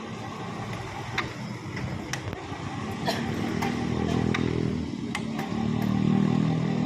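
A small engine, like a motorcycle's, revving up under load twice, with a few sharp clicks or knocks over it.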